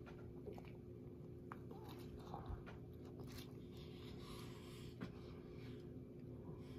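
A person chewing a mouthful of sub sandwich: faint, scattered mouth clicks and soft smacking, over a steady low hum.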